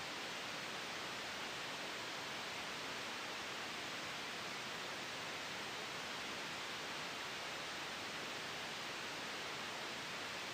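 Steady synthetic white noise: a bright, even hiss that does not change or gust.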